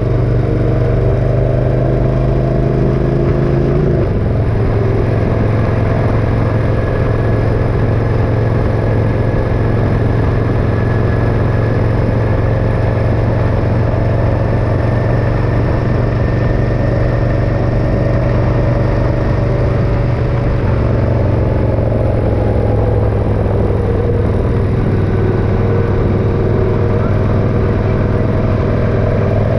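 Motorcycle engine running steadily under way, with road and wind noise. The engine note drops abruptly once about four seconds in, then holds steady with slight rises and falls.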